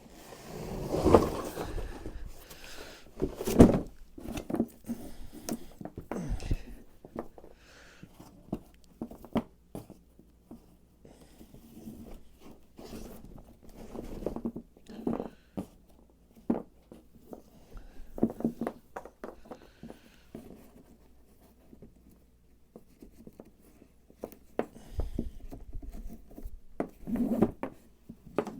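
Handling noises from a box of new sawmill bandsaw blades being opened and handled: scattered knocks, clicks and brief rustles, with two louder knocks in the first few seconds.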